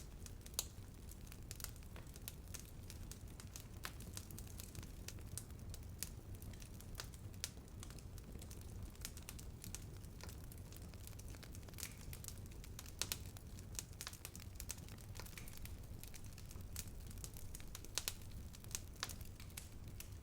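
Bonfire burning: a steady low rumble under irregular sharp crackles and pops of burning wood, with a few louder pops.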